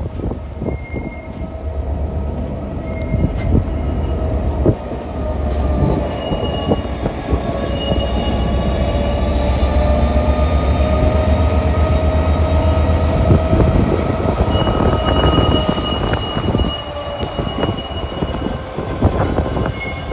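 Freight train running past with a heavy low rumble and a clatter of wheels over the rail joints. Several wheels squeal in long, slightly wavering tones.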